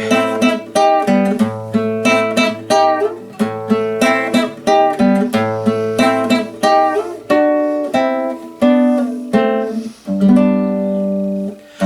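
Acoustic guitar picking a melody of single plucked notes, then letting one chord ring out and fade near the end.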